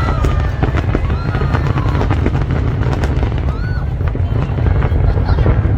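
Fireworks going off in quick succession: many sharp cracks over a steady low rumble of booms, with crowd voices faintly underneath.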